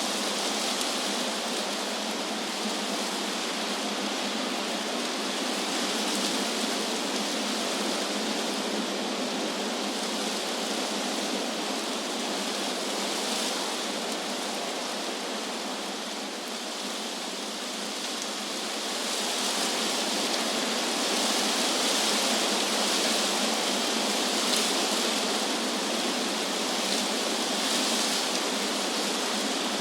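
Wind blowing through trees, a steady rushing hiss of stirring leaves that eases a little about halfway through, then swells again in a gust.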